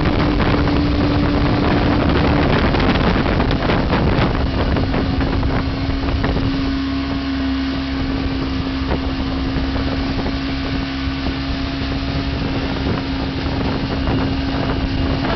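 Motorboat engine running steadily at speed, its note dipping slightly about two and a half seconds in, with wind buffeting the microphone and the rush of water.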